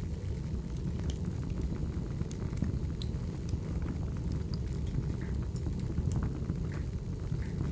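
Recorded wood fire burning: a steady low rumble of flames with scattered small crackles and pops from the burning logs.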